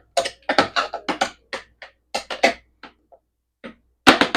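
Kitchen chopper working through chopped vegetables in short chopping bursts, irregular at first and speeding into a fast run of about seven a second near the end.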